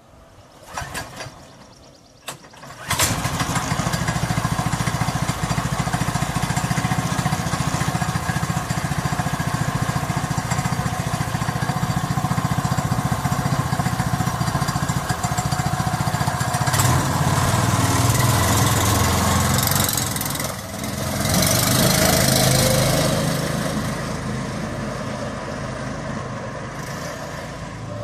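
A small engine turned over briefly twice, then starting about three seconds in and running steadily. It is revved up twice in the second half, then eases back.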